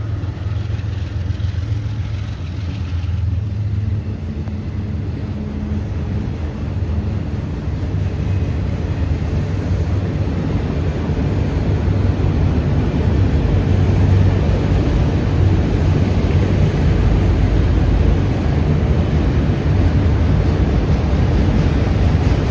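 Low rumble of an approaching CSX freight train's diesel locomotives, growing louder over the first half and then holding steady.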